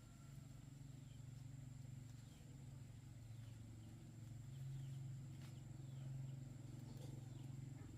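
Faint outdoor ambience: a steady low mechanical hum with scattered short bird chirps.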